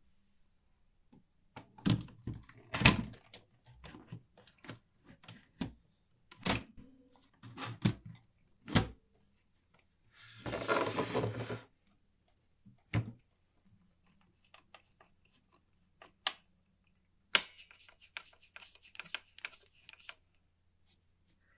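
Scattered clicks and knocks of small metal typewriter parts being handled and fitted. A rasping noise lasts about a second and a half near the middle, and a run of small quick clicks comes near the end.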